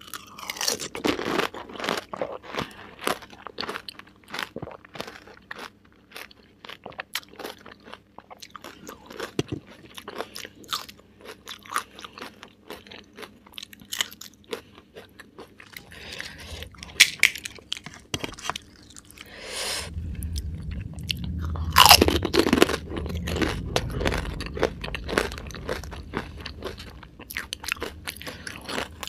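Close-miked crunching and chewing of pani puri, crisp fried shells filled with mint water, broken up between the teeth, with a bite of raw green chilli partway through. The crunching is loudest a little past two-thirds of the way in.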